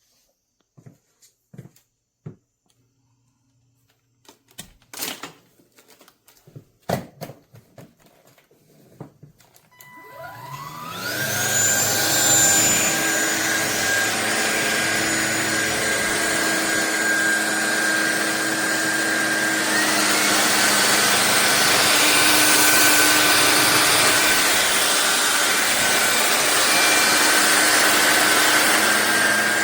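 A few clicks and knocks, then the SunSare X7A cordless stick vacuum's motor spins up with a rising whine about ten seconds in and runs steadily. Its tone shifts slightly about twenty seconds in.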